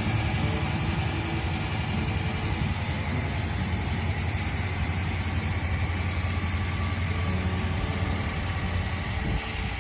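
1956 Ford Thunderbird's 292 V8 engine idling steadily.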